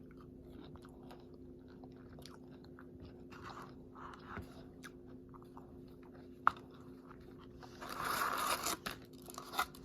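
A person chewing and crunching on a crispy fried chicken sandwich, with soft, scattered mouth and crunch sounds and a louder crunchy stretch about eight seconds in.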